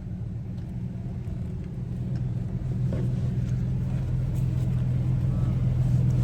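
Infiniti G37's 3.7-litre V6 engine running with a low, steady drone that slowly grows louder.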